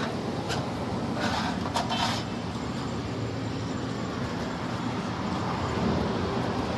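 Excavator diesel engine running steadily, a continuous low rumble, with a few light metallic clinks in the first two seconds.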